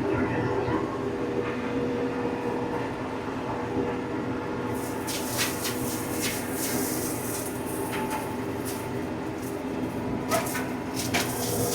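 TYM compact tractor's diesel engine and PTO-driven Baumalight flail mower running steadily under load while shredding thick brush. Sharp cracks and snaps of brush and debris come through from about five seconds in.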